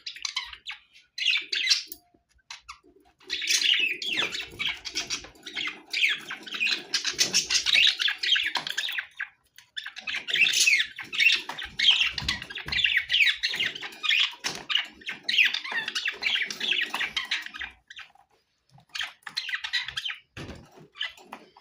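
Budgerigars chattering and warbling in long runs of fast, high chirps, with brief pauses about two seconds in and again near the end.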